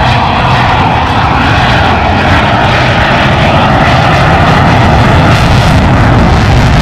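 Airplane engine noise, loud and steady, growing a little louder in the second half.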